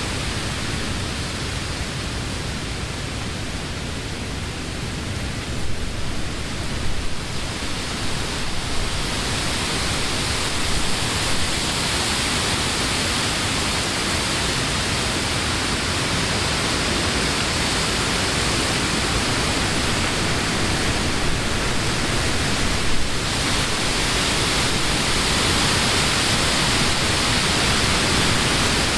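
Summer wind blowing through leafy trees: a steady rush of leaves with small gusts, growing slightly louder over the second half.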